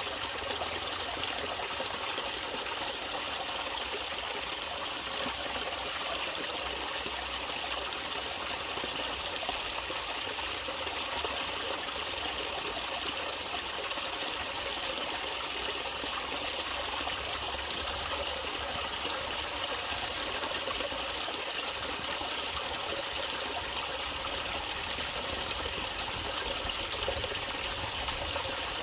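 Water of a natural stream flowing and trickling, a steady even rush with no breaks or changes.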